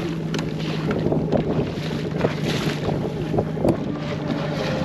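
Wind buffeting the microphone and water lapping at a small boat, over a steady low hum, with a few light knocks and one sharper knock near the end.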